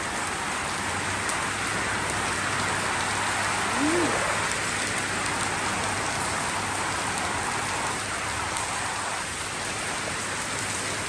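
Rain pouring down steadily, an even, dense hiss of drops hitting surfaces. About four seconds in there is one short rising-then-falling tone.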